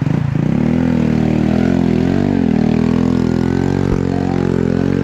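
Trail motorcycle engine running hard at steady high revs, its pitch wavering with the throttle and dipping briefly about halfway through.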